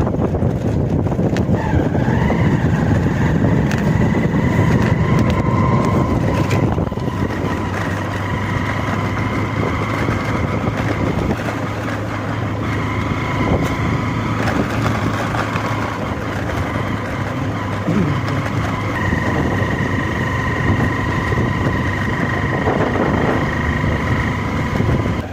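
A motor vehicle running steadily while on the move, with a steady high whine over the engine and road noise.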